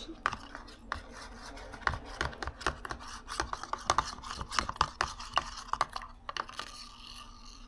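Objects being handled by hand: a quick run of light taps and clicks with rubbing and scraping, busiest in the middle.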